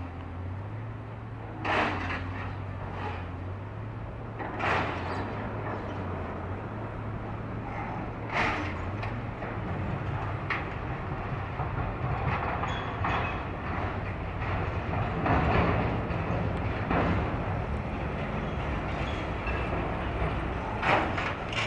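A train running slowly, with a steady low hum and sharp clacks every few seconds; it grows louder from about halfway through.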